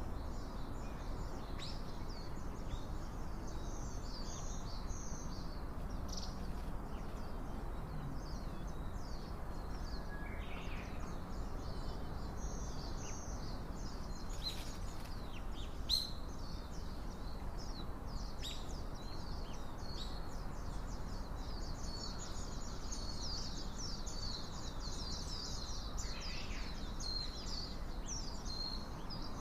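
Small birds chirping: many short, high calls throughout, thickest in the second half, over a steady low background noise. A single sharp click about halfway through.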